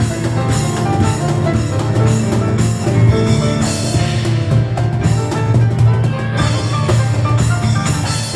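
Live piano and cajon duo playing: many quick piano notes over a steady cajon beat.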